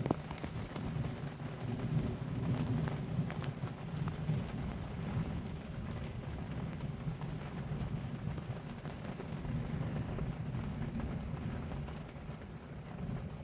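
Heavy rain in a thunderstorm, a steady downpour with scattered sharp taps of drops striking nearby surfaces over a low rumble.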